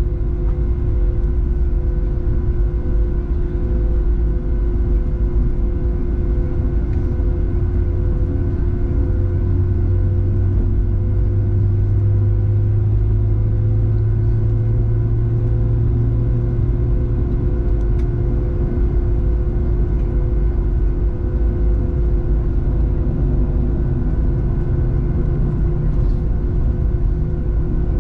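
Steady cabin rumble inside a Boeing 737-700 taxiing with its CFM56-7B engines at low power, with several steady whining tones over it. The low hum swells for a few seconds midway, then settles.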